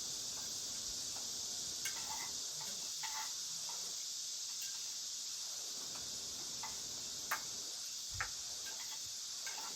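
Steady high-pitched chorus of summer insects, with a few faint clicks and knocks over it.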